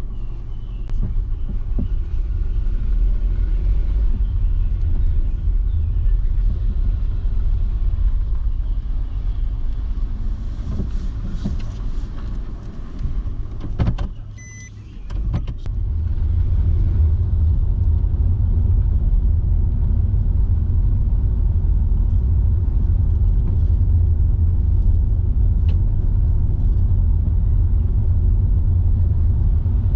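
Car driving, a steady low rumble of engine and tyres on the road. About halfway through it quietens for a moment, then comes back louder and steadier.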